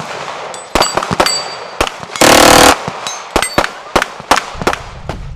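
Gunfire on an outdoor firing line: many separate shots from several guns at uneven intervals, with one loud half-second burst of automatic fire about two seconds in. A low rumble comes in near the end.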